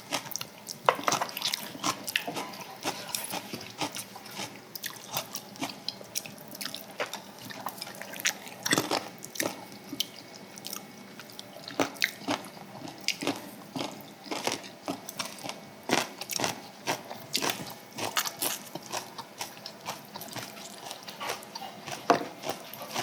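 Close-miked eating of samgyetang (ginseng chicken soup): wet chewing and biting with many small irregular mouth clicks and smacks.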